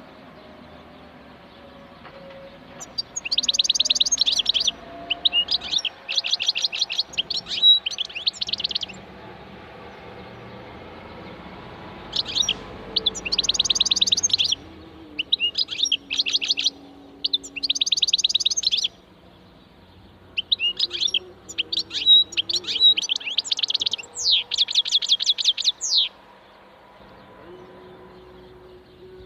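European goldfinch singing: bursts of rapid, high twittering notes in phrases of one to a few seconds, with short pauses between them. A longer run of song comes in the last few seconds.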